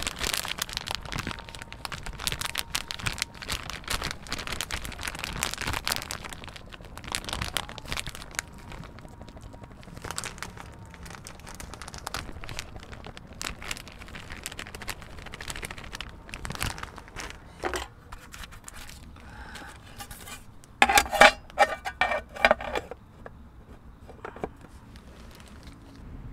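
Meat and vegetables frying in a metal pan on a camp stove, crackling densely for most of the time, then quieter. About three-quarters of the way through comes a brief cluster of loud, ringing metal knocks.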